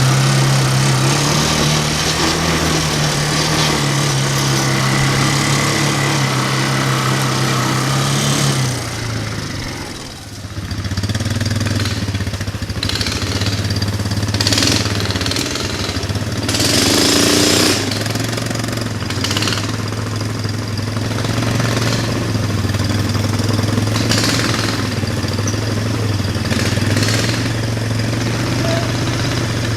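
420cc single-cylinder mini bike engine running steadily at speed. About nine seconds in its note drops and dips briefly, then it settles at a slightly lower steady pitch, with a few short bursts of noise over it.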